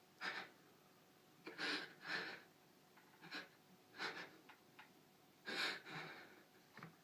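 A voice actor's heavy breathing: several sharp, uneven breaths in and out, acting stunned surprise. It sounds upset rather than merely surprised.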